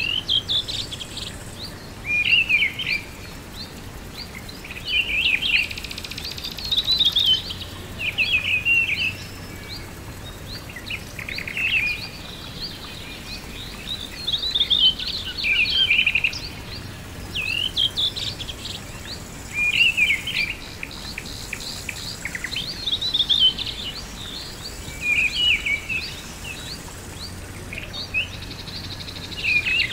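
Songbirds singing short, chirping phrases that come every two to three seconds, over a steady background hiss.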